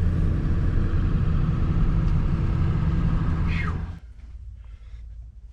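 Steady low rumble of a car's engine and road noise heard from inside the moving car. It cuts off suddenly about four seconds in, leaving only quiet room tone.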